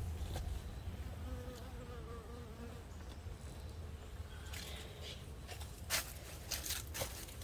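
Honey bee buzzing close by, a wavering hum that drifts in pitch and fades after a couple of seconds. Several sharp knocks and clicks follow later, the loudest about six seconds in.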